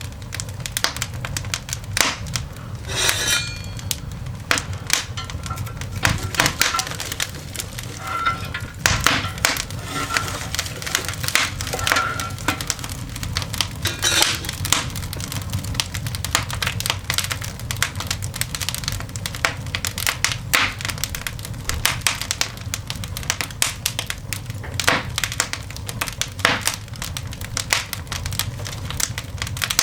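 Coal fire burning in a cast iron dog grate, crackling with irregular sharp snaps and pops over a steady low background.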